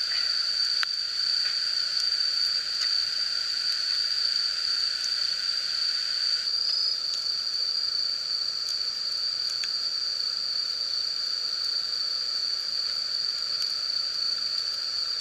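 Steady high-pitched chorus of insects trilling without a break. A few faint crackles from the campfire are heard.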